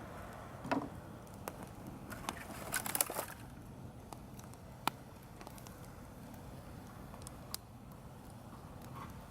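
Wood campfire crackling, with scattered sharp pops and a denser burst of crackles about three seconds in.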